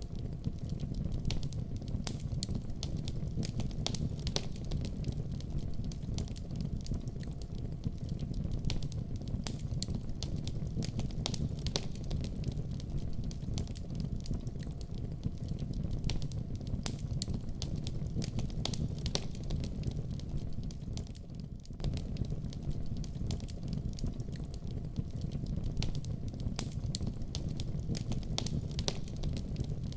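Wood fire burning in a fireplace, a low steady rumble of flames with frequent irregular crackles and pops.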